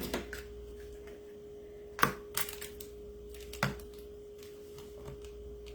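A few light clicks and taps of craft supplies being handled on a table, three or so in all, over a steady faint hum.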